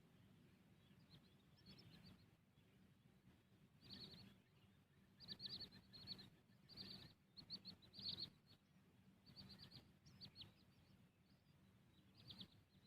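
Birds chirping faintly: clusters of short, high chirps that come every second or two over a soft background hum.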